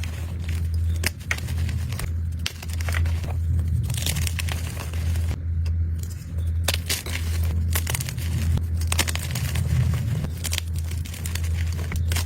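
Blocks of gym chalk being crushed and crumbled, a dense run of crunchy crackles and snaps, sped up to double speed, with a steady low hum underneath.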